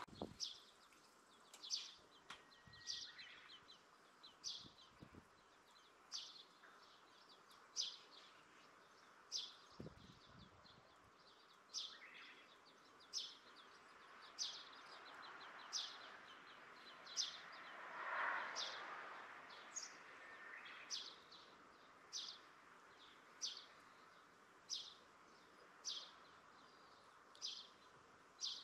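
A bird calling over and over, a short high chirp repeated at an even pace of about one every second and a bit, through quiet outdoor background.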